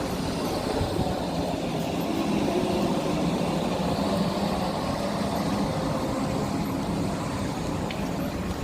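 Suburban electric train running: a steady rumble with a faint hum that swells slightly a few seconds in.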